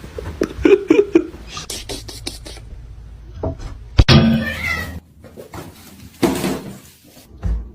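A domestic cat meowing in several short calls, with a sharp knock about four seconds in.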